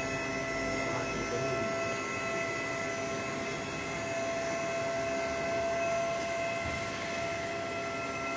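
Aluminium melting furnace equipment running with a steady hum, several high steady tones held over a noisy background.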